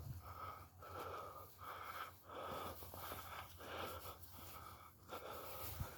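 Quiet footsteps on a woodland path in a steady walking rhythm, roughly three steps every two seconds.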